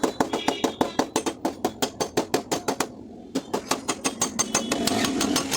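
Rapid, light metal taps on a car door panel, about seven a second, from a tap-down tool and hammer knocking down a dent in paintless dent repair. The tapping stops briefly about three seconds in and then resumes, and a steady rushing noise comes in near the end.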